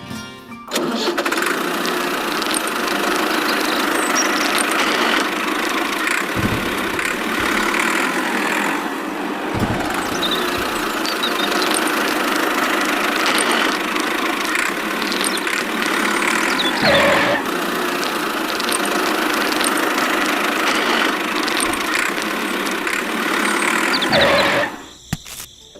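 Engine running steadily. It starts about a second in and cuts off suddenly near the end, with a few short low thumps along the way.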